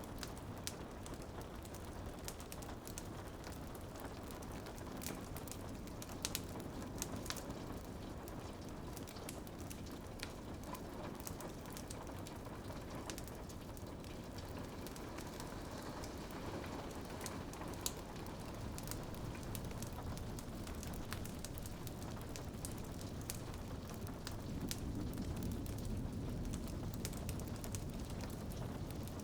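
Rain pattering on a window glass mixed with a crackling wood fire, its sharp pops and snaps scattered irregularly over a steady wash of rain. The low rumble of the fire grows a little louder near the end.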